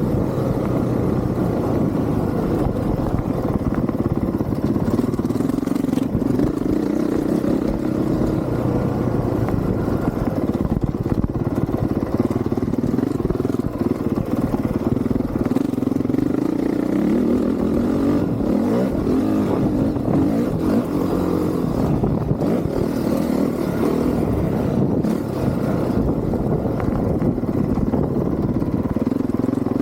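Honda CRF450R dirt bike's single-cylinder four-stroke engine under riding load, its revs climbing and dropping back over and over as the bike accelerates and slows.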